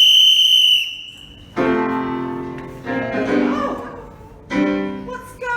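A conductor's departure whistle blown once, a single steady high note held for about a second, followed by piano music starting with struck chords that ring and fade.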